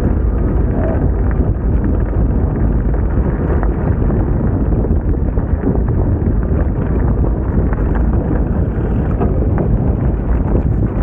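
Wind buffeting the microphone: a loud, steady, deep rumble that runs without a break.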